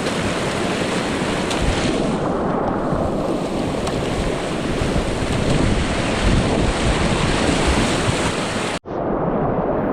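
River whitewater rushing steadily, with wind buffeting the microphone. The sound cuts out abruptly for a split second near the end, then returns duller.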